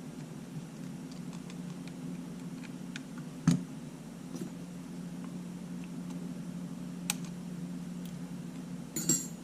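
Small metal tools and camera parts clicking and clinking during the disassembly of a Sony A7 camera body: a sharp click about three and a half seconds in, another near seven seconds, and a quick rattle of small clinks near the end, over a steady low hum.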